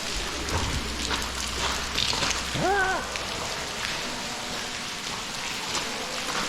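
Meltwater dripping and splattering steadily from a tunnel ceiling like rain, many separate drops. About two and a half seconds in, a short call rises and falls once.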